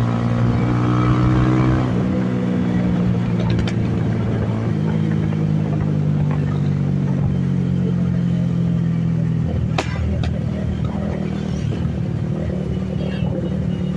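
Benelli TNT 25's single-cylinder four-stroke engine pulling under throttle, its pitch stepping at about two and five seconds in. Just before ten seconds the throttle closes and the exhaust gives two sharp backfire pops.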